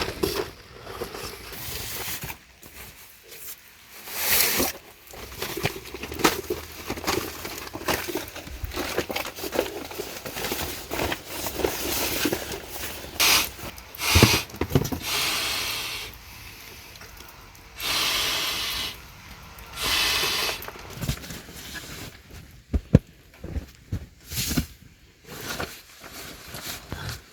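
Irregular handling noises: rustling and scraping bursts, broken by sharp knocks and clicks that cluster near the end.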